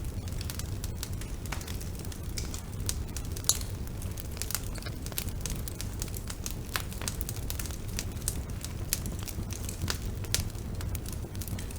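Bonfire burning: a steady low rumble of flames with frequent irregular crackles and pops of burning wood, one sharper pop about three and a half seconds in.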